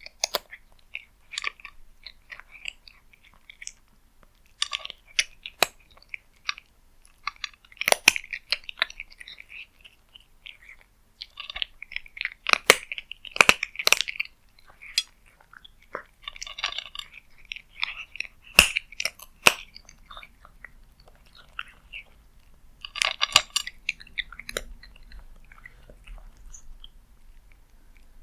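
Cat eating, with irregular chewing and crunching bites and a few sharp clicks.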